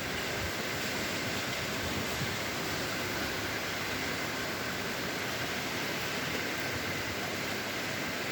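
Heavy rain falling steadily, a continuous even hiss with no breaks.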